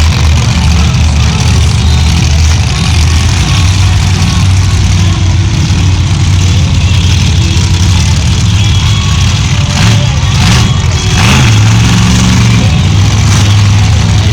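Monster truck engines running loudly after being started, their pitch shifting from about eleven seconds in as they rev.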